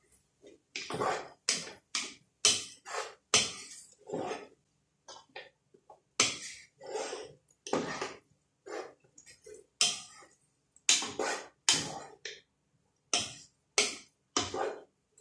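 Spatula stirring and scraping minced chicken and carrots in a frying pan, in short, uneven strokes about two or three a second.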